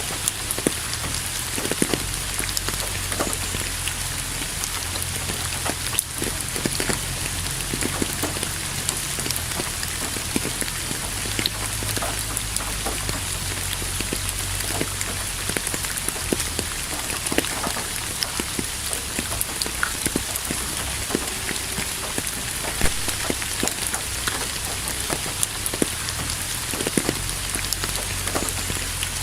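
Steady rain falling, with the patter of many individual drops landing close by.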